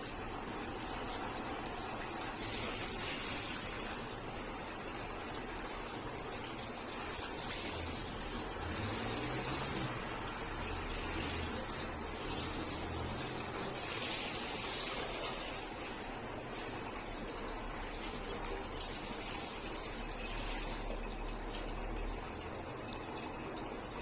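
Running water gushing steadily, with slight swells in its hiss now and then.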